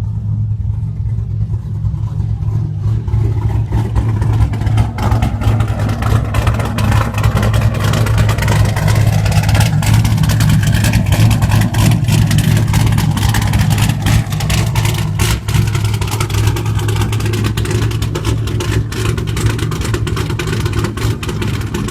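Camaro engine with a custom BTR camshaft idling rough and choppy, its exhaust open through headers with the catalytic converters and muffler deleted. The sound gets brighter and louder a few seconds in.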